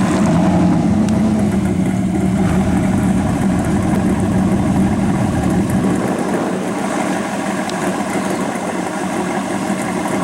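Turbocharged LS V8 in a 1963 Chevy II Nova idling steadily.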